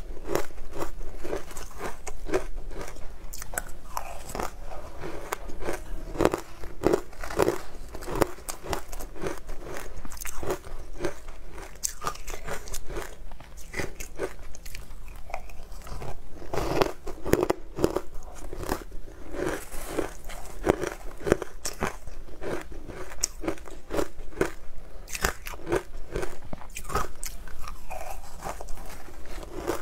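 A person crunching and chewing icy frozen food off a spoon, with many crisp crunches in quick succession.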